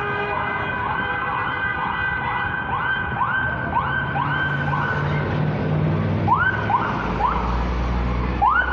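Police car siren in a fast yelp, its pitch sweeping up over and over at about two to three times a second, with gaps appearing after about six seconds. A low rumble comes in near the end.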